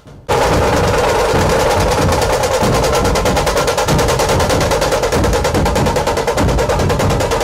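Loud, fast drumming in dense, continuous drum rolls, starting abruptly just after the start.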